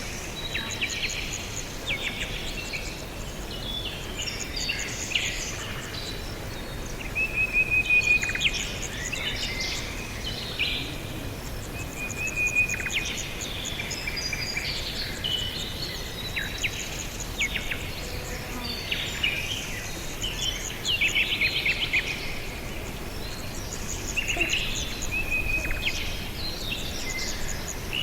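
Several birds chirping and calling at once, short overlapping chirps and trills with now and then a longer whistled phrase, over a steady background hiss.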